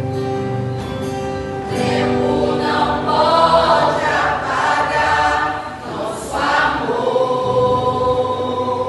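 Mixed couples' choir singing a gospel hymn in harmony, holding a long note near the end.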